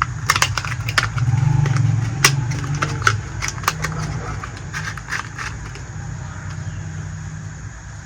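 Small plastic toy pieces clicking and tapping as they are handled, a quick scatter of sharp ticks that thins out after about four seconds, over a steady low rumble.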